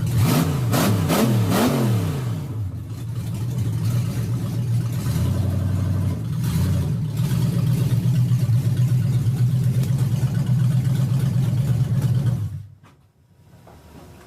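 Big-block Chevy V8 engine revving, its pitch falling and rising several times in the first two seconds as the throttle is blipped. It then holds a steady, loud drone and cuts off abruptly near the end.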